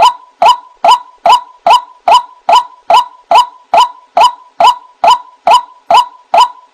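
White-breasted waterhen (ruak-ruak) call played as a bird-trapping lure: a short, sharp note repeated very evenly, about two and a half times a second.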